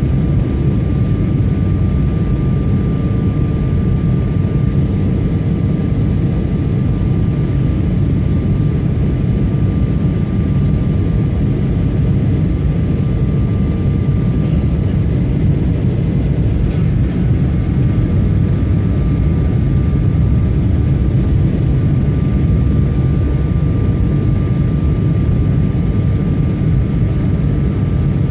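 Passenger jet noise as heard inside the cabin on a landing approach: a loud, steady low rush of engine and airflow noise with a thin constant whine over it.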